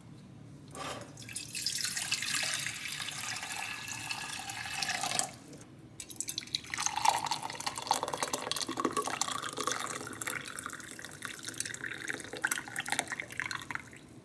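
Water running from a tap into a sink, in two runs with a short break about five seconds in; the second run splashes and spatters more.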